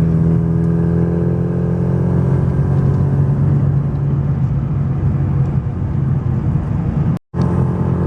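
Tuned four-cylinder engine of a Mini Downton running steadily while driving at modest speed in traffic, heard from inside the car. The sound cuts out completely for a moment about seven seconds in, then returns.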